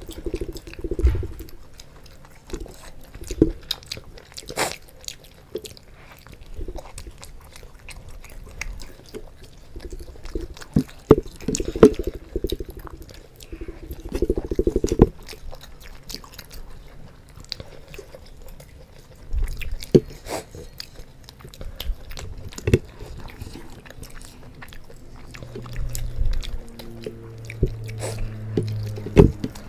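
Close-miked biting and chewing of momos by two people eating at once: irregular wet smacks and clicks of mouths and fingers on the dumplings, with no words.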